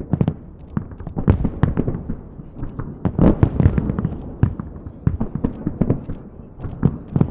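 Fireworks salute going off: a rapid, irregular run of bangs and crackles with booming low echoes, and crowd voices underneath.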